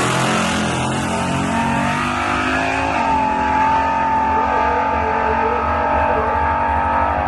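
Drag-racing S10 pickup truck's engine running hard at full throttle, its pitch climbing, stepping to a new pitch about three seconds in, then holding steady.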